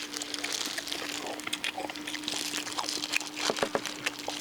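Crisp, wood-roasted duck skin crackling and crinkling as the bird is pulled apart and peeled by hand, in a run of short irregular crackles over a faint steady hum.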